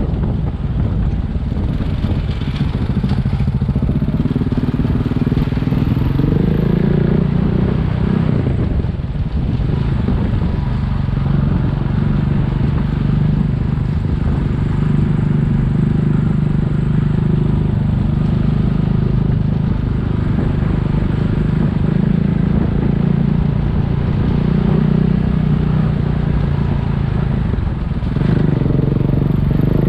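Single-cylinder dual-sport motorcycle engine running under way. Its note rises and falls with the throttle, with brief dips where the rider shifts gear or eases off a few times.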